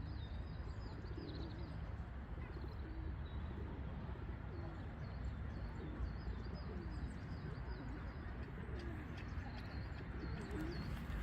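Doves cooing again and again in low, soft phrases while small birds chirp in quick high runs, over a steady low background rumble.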